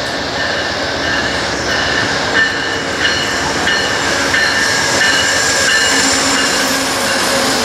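A train passing close by: steady rolling noise of steel wheels on rail, with short, high-pitched wheel squeals coming and going.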